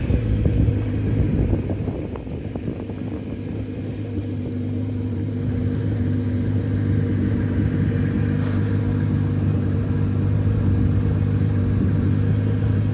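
Boat motor running at a steady low idle, a constant hum.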